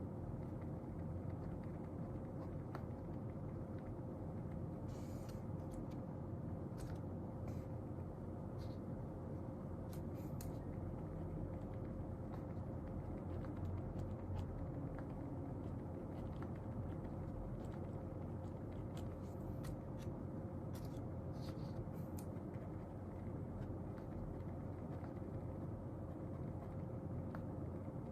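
Steady low room hum with a faint constant tone, and a few brief scratches of writing on paper scattered through it.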